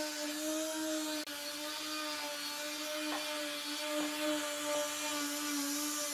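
A handheld power tool running steadily at constant speed, a high, even whine over a hiss, with a brief dip in its sound about a second in.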